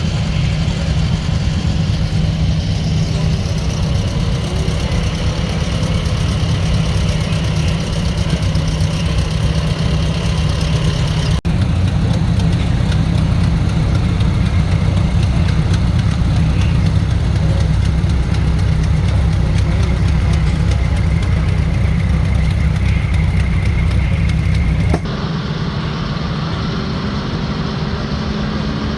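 A steady, low engine rumble, like an engine running at idle, with the sound changing abruptly twice, once about a third of the way in and again near the end.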